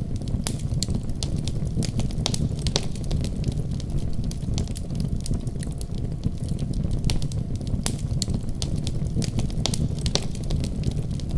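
Wood fire crackling: a steady low rumble of flames with frequent irregular sharp pops and snaps.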